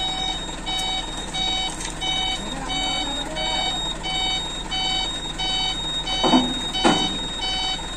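Truck reversing alarm beeping steadily, about two short beeps a second at one unchanging pitch, over a steady low engine hum. Two brief louder sounds break in near the end.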